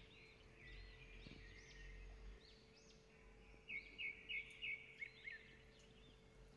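Faint birdsong: small birds chirping in repeated arching notes, with a quick run of about five short notes a little past the middle, over a faint steady hum.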